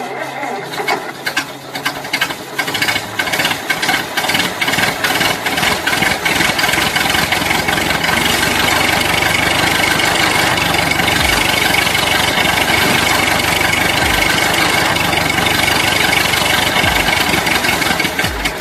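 Small motor of a homemade model tractor running hard, with a dense, rapid rattle.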